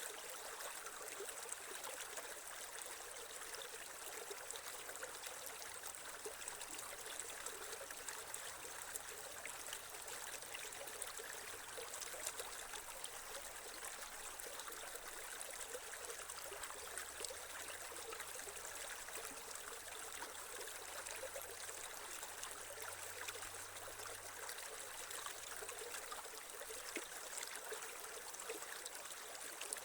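Creek water flowing and trickling steadily, an even rushing and babbling.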